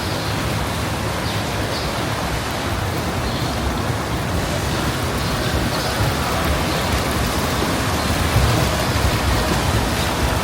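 Steady rushing noise with a fluttering low rumble and no distinct events.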